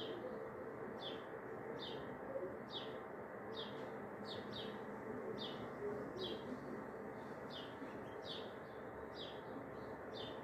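A small bird chirping over and over, short high notes about one to two a second, over a faint steady background hum.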